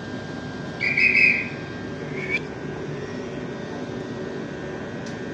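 Electric passenger train moving past at the platform, running with a steady whine. About a second in there is a short, loud, high-pitched whistle-like tone, and a briefer one about two seconds in.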